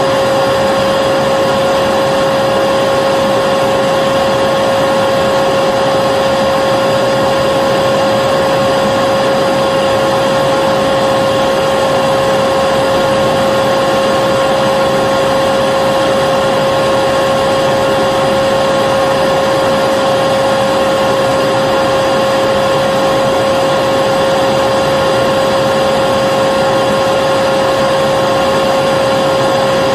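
Vacuum cleaner running steadily, a constant whooshing hiss with a steady motor whine over it.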